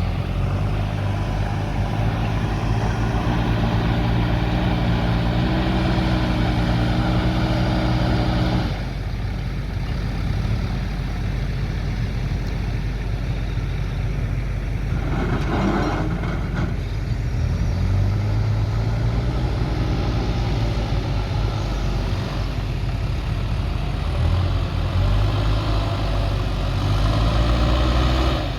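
JCB 3DX backhoe loader's diesel engine working, its revs rising under load and dropping back several times as the machine moves soil. A brief harsh noise cuts in about halfway through.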